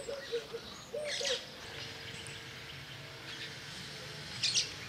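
Outdoor background with short bird calls in the first second or so. A brief, high-pitched chirp comes near the end.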